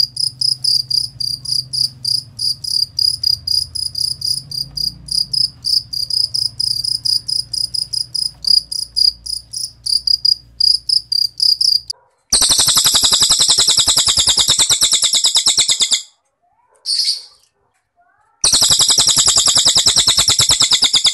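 A cricket (jangkrik) chirping in a steady series of short high pulses, several a second, for about the first twelve seconds. A cililin bird then takes over with two long, very fast rattling trills of three to four seconds each, with a brief burst between them.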